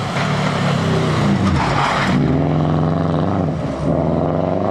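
Rally car engine running hard at high revs, its pitch shifting as it changes speed, with a short rush of noise about two seconds in.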